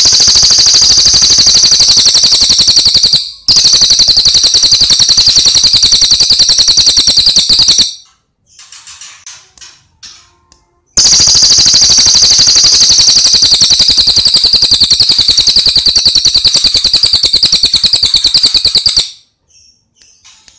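Songbird singing long, loud, rapid high-pitched rattling trills in three bursts of about four, four and eight seconds, with softer chirps in the gap after the second burst.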